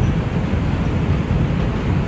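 Steady rumble of an R142 subway car running between stations, heard from inside the car: wheels on the rails with a dense, low noise.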